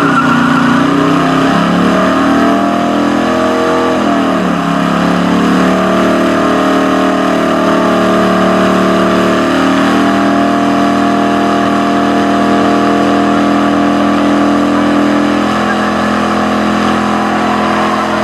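A modified truck's 383 cubic-inch V8 is held at high revs during a burnout, running loud and steady. The revs dip and climb back about four seconds in.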